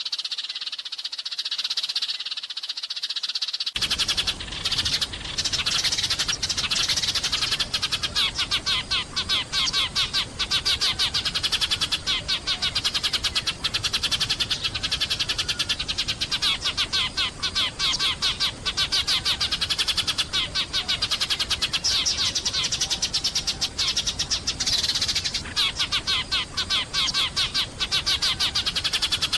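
A flock of Eurasian tree sparrows chirping continuously in a rapid, dense chatter. About four seconds in, a low background hiss comes in and the chirping thickens.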